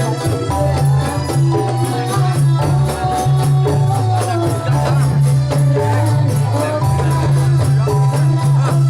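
Dolalak folk dance music played by a live band: a fast, even run of jingling frame-drum and tambourine strokes over a deep, moving bass line, with a held melody above.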